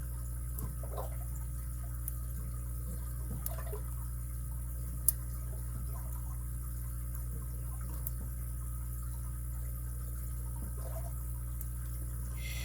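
Faint ticks and scrapes of a lock pick and tension wrench working the pins inside a padlock's keyway, over a steady low hum, with one sharper click about five seconds in.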